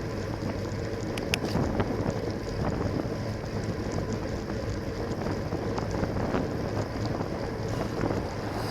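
Wind rushing over a bicycle-mounted camera's microphone while riding, with steady road noise underneath and a few light ticks about a second and a half in.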